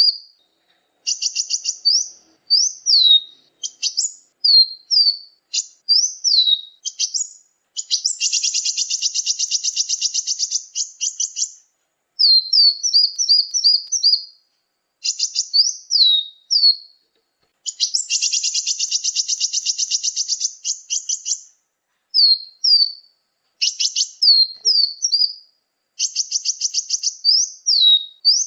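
Bird-lure recording of small songbirds calling: quick runs of sharp, falling, high whistled notes, broken twice by a long, dense, buzzy trill of about three seconds.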